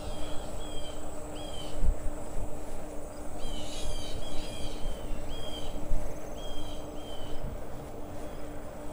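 Birds chirping in short, repeated calls, several overlapping about four seconds in, over a steady high insect trill. A low rumble of wind and tyre noise from the bike runs underneath.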